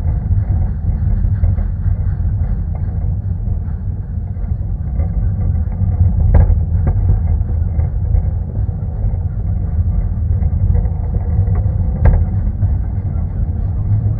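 Ride in an open coach of a 750 mm narrow-gauge railway: steady low rumble of the wheels running on the track, with a sharp clank about six seconds in and another about twelve seconds in.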